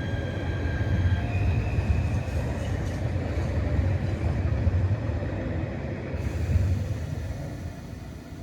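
Narrow-gauge Roslagsbanan electric train running past with a heavy low rumble and a high electric whine that steps to a new pitch about a second in, then fades out; the rumble dies away near the end as the train moves off.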